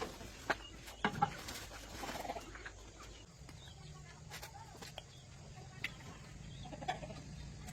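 Chickens clucking in short, scattered calls, with a faint low steady hum coming in about three seconds in.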